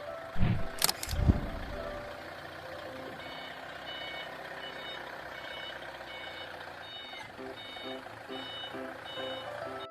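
Forklift running with two heavy clunks near the start, then its reversing alarm beeping about twice a second from about three seconds in.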